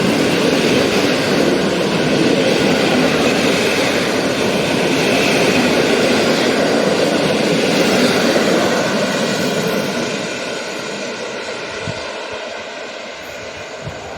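A train passing close by: a steady rush of wheel and running noise with faint steady tones over it, dying away from about nine seconds in as it moves off.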